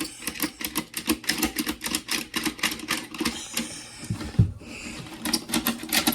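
Rapid plastic clicking and clacking from Akedo battle-toy figures and their hand controllers during a fight, with a dull low thump about four seconds in.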